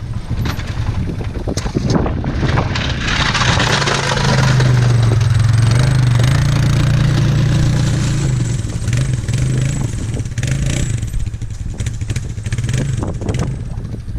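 Snow plow truck's engine running under load; it grows louder about three seconds in and eases off after about eight seconds, with a rushing scrape over it while it is loudest.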